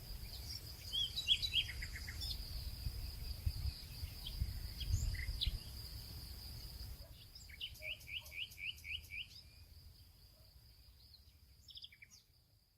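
Nature soundscape of small birds chirping and calling over a steady high-pitched insect drone, with a low rumble in the first half. Just past halfway one bird gives a quick run of about six repeated chirps, and the whole soundscape fades out near the end.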